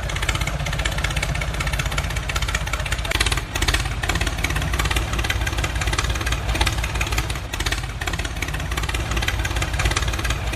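A motor running steadily with a fast, even pulsing rattle, dipping briefly about three and a half seconds in.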